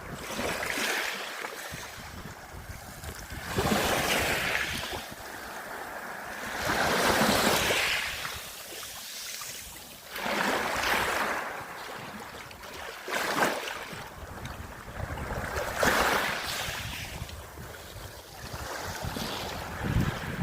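Small sea waves breaking and washing on the shore, one surge about every three seconds, with some wind buffeting the microphone.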